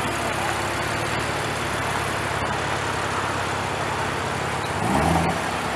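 Chevrolet Corvette C7's V8 rumbling at low speed, then a short rev about five seconds in, over street noise.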